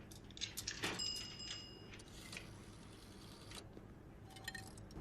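Coins clicking and jingling into a coin payphone as a call is placed, with a short ringing chime about a second in and a brief tone near the end, over a steady low hum.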